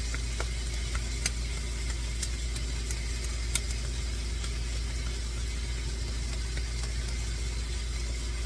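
Seasoned meat with peppers and sweet onions sizzling in olive oil in a frying pan, with a few sharp pops in the first few seconds, over a steady low hum.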